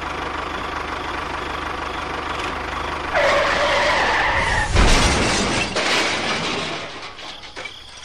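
Tractor engine running steadily. About three seconds in, a pitched tone sounds for about a second and a half, then a louder burst of noise follows and fades away.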